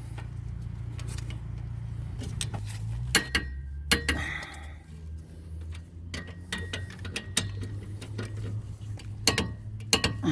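Sharp metallic clicks and clinks from hand tools and brake hardware being handled, with the loudest about three seconds in, again a moment later, and twice near the end, over a steady low hum.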